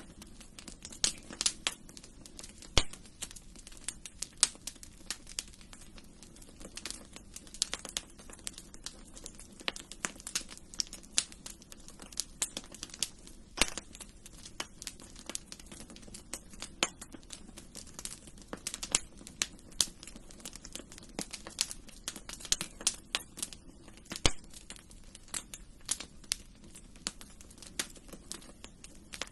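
Wood fire crackling in a fireplace: irregular sharp pops and snaps, a few a second, over a soft, steady low rush.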